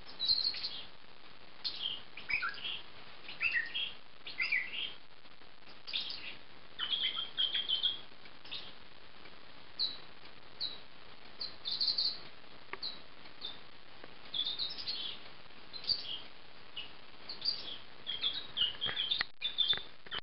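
Recorded bird calls from a bird-call CD playing through a TV's speakers: short high chirps and a few downward-sliding notes in irregular clusters.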